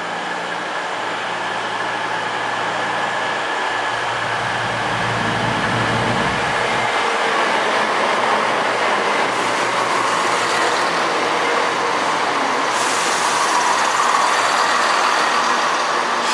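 CrossCountry Class 170 Turbostar diesel multiple unit running into the platform: a steady engine drone and rumbling wheels that grow louder as it draws alongside. A higher hiss joins in near the end.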